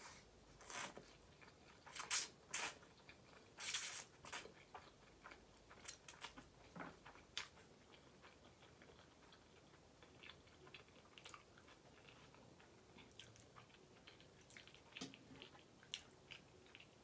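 Close-miked eating sounds from a mouthful of ramen noodles: wet biting, smacking and chewing clicks. They come thick and loud in the first several seconds and then go on as fainter, scattered chewing.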